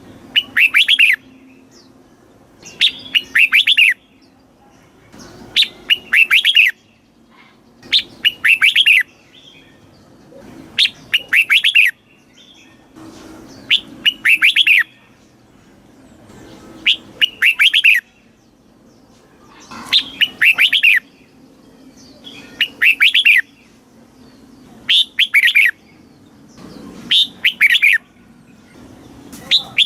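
Red-whiskered bulbul singing: a short phrase of several quick whistled notes, repeated about every three seconds.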